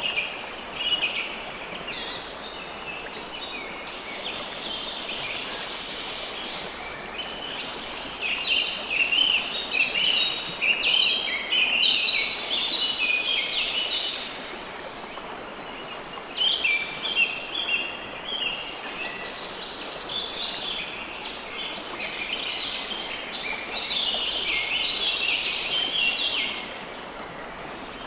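River water flowing steadily, with several songbirds chirping and singing over it in busy bursts, heaviest in the middle and toward the end.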